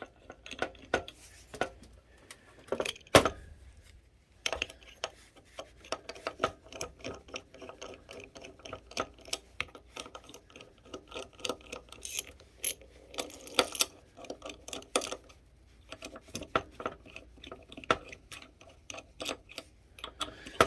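Irregular clicks, taps and knocks of metal parts and hand tools being worked while an engine mount is taken apart, with one sharper knock about three seconds in.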